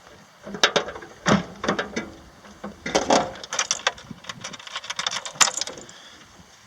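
Irregular metallic clicks, knocks and clatter from hands handling tools and cable clamps at a lawn tractor's battery and ground connection; no engine is running.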